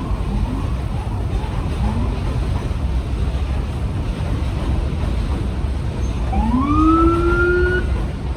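Subway train running with a steady low rumble. About six seconds in, a clear tone glides upward, holds level for about a second, then stops, with a few fainter short rising chirps before it.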